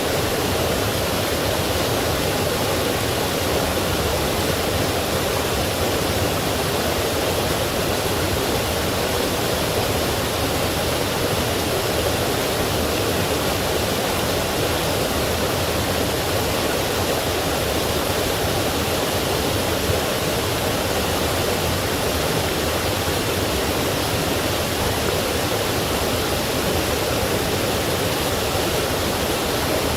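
A forest stream running over rocks and small falls, a steady full rush of water.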